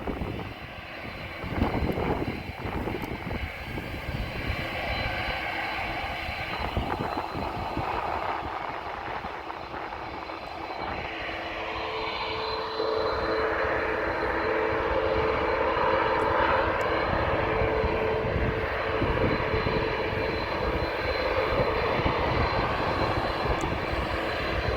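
Jet airliner engines during a takeoff, a continuous rushing noise that grows louder about halfway through as a low steady hum comes in.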